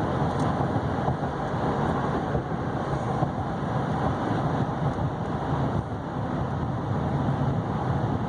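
Steady road and engine noise inside the cab of a 2012 Chevy Silverado 3500HD with its 6.6-litre Duramax V8 turbodiesel, cruising at a constant speed on cruise control.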